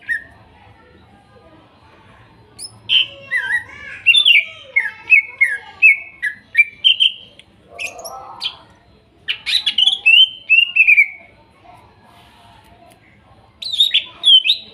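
Green leafbird singing in three bursts of rapid, varied whistles and chirps that slide up and down in pitch, with short pauses between the phrases.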